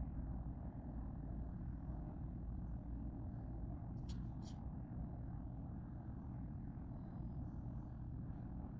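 Freight train of autorack cars rolling past, a steady low rumble, with two brief high chirps about four seconds in.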